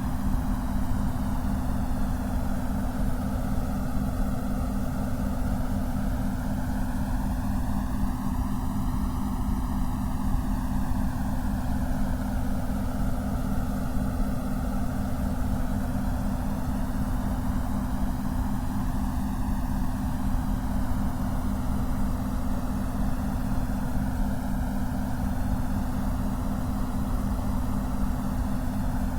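Steady synthetic white-noise hiss with a slow swooshing sweep that rises and falls every several seconds, over a steady low hum.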